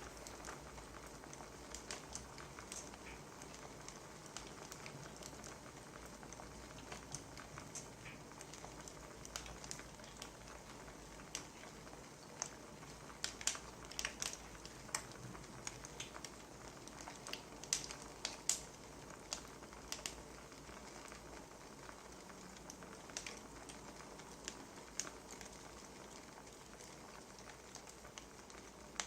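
Wood fire crackling, with irregular sharp pops and snaps over a soft steady hiss; the pops come thickest about halfway through.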